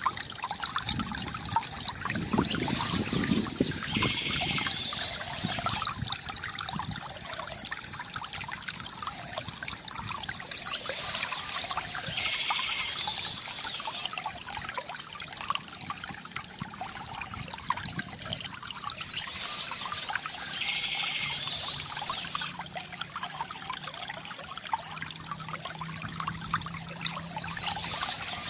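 Stream water flowing steadily, with a bird's song phrase coming back about every eight seconds over it.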